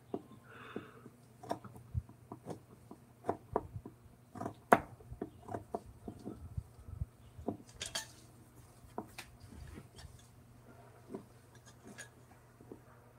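Hand tools being worked at a wood-carving bench: irregular light clicks, taps and clinks, one sharper knock about five seconds in, over a faint steady low hum.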